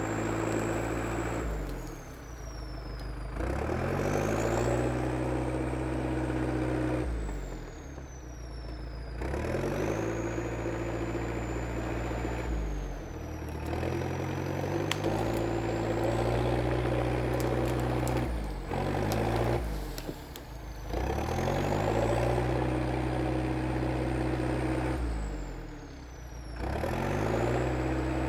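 IH TD8E crawler dozer's diesel engine running hard, its speed dropping and coming back up about five times, with a high whine that rises and falls with the engine.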